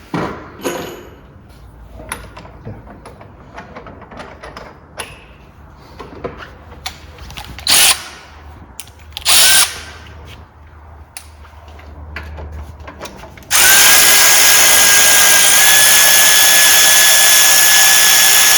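Light clicks and knocks of metal parts being handled, two short bursts of a power tool, then a power drill/driver running steadily for about five seconds with a steady whine, as the upper claw fasteners of a coil spring compressor are undone.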